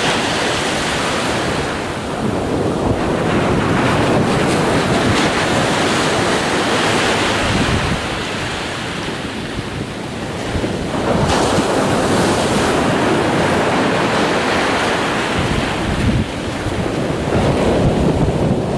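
Ocean surf: waves breaking and washing in a continuous rushing noise that swells and eases over several seconds, dipping about eight seconds in and building again a few seconds later.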